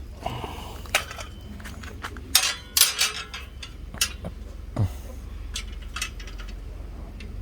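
Parts of a bird feeder stand clinking and knocking together as they are handled and fitted, in a handful of separate sharp knocks with a cluster about a third of the way in.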